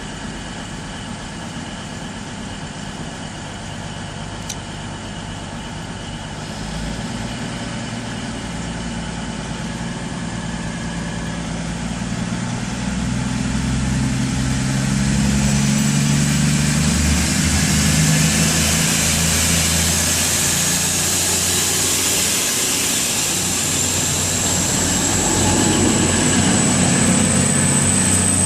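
Diesel passenger train's engines running at the platform, then building up and getting steadily louder, with a thin rising high whine joining about two-thirds of the way through, as the train pulls away. A single sharp click sounds about four seconds in.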